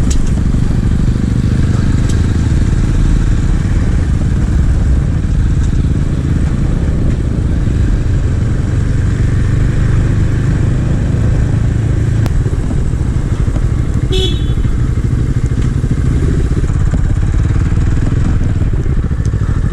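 A small 250 cc motorcycle engine running steadily while riding. About fourteen seconds in there is a short high-pitched chirp.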